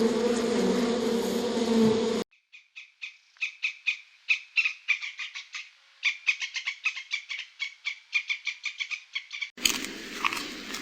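A steady buzz stops abruptly about two seconds in. It is followed by a long run of short, high-pitched chirps from a small animal, several a second, which stop suddenly near the end.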